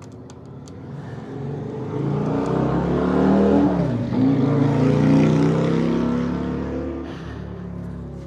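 A motor vehicle passing by: its engine grows louder over a few seconds, peaks around the middle with a brief dip and shift in pitch, then fades away.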